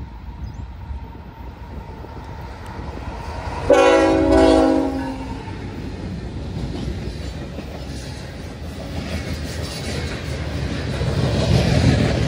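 Freight locomotive horn sounding one short blast about four seconds in, the loudest sound, as the CN locomotives pass. Around it, the steady rumble and clickety-clack of the freight train rolling by, the covered hopper cars growing louder near the end.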